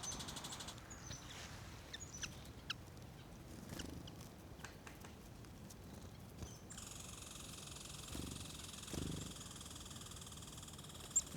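Small songbirds, chickadees and nuthatches, calling faintly at a seed spot: scattered short high chirps for the first few seconds, then a continuous high nasal chatter from about seven seconds in.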